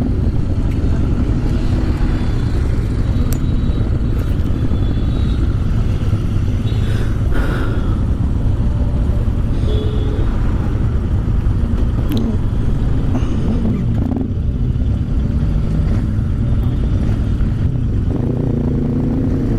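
Motorcycle engine running under way with a steady rumble of wind and road noise, in a pack of other motorcycles.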